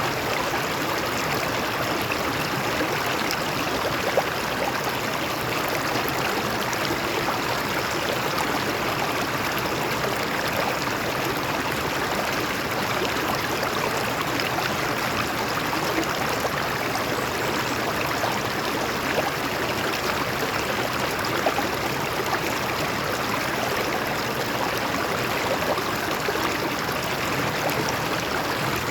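Water flowing over rocks in a stream, a steady, unbroken rush.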